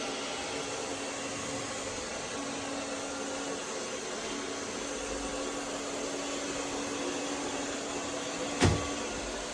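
Robot vacuum running with a steady whirring hiss and a faint hum, with one sharp knock about a second before the end.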